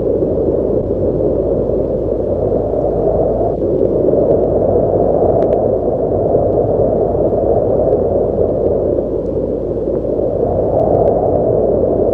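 Strong wind blowing, a loud steady rush that swells and eases every few seconds.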